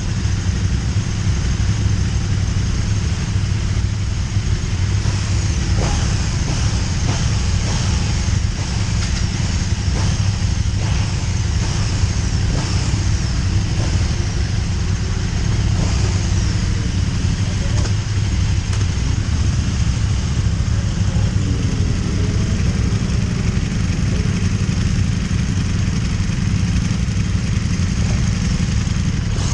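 KTM 1290 Super Duke R's V-twin engine at speed on track, heard onboard under a steady low rush, its pitch faintly rising and falling with the throttle.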